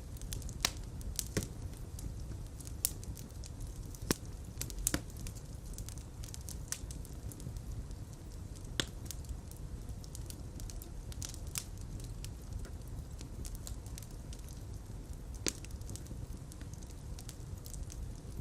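Fireplace fire crackling, with irregular sharp pops over a steady low rumble of flames; the loudest pops come in the first few seconds.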